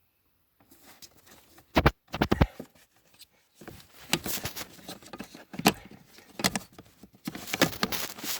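Clicks, knocks and scraping of parts and tools being handled while the flap positioning motor is fitted back in the car, starting about half a second in, with the sharpest knocks about two seconds in.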